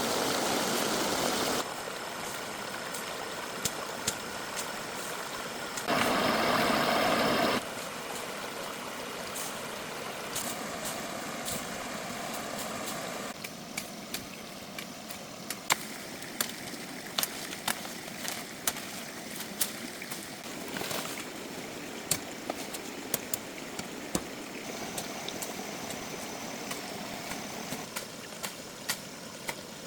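Running water from a stream, a steady rushing noise that changes in loudness several times, with scattered sharp knocks and clicks through the second half.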